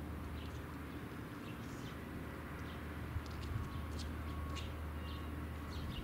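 Small birds giving scattered short, high chirps over a steady low hum.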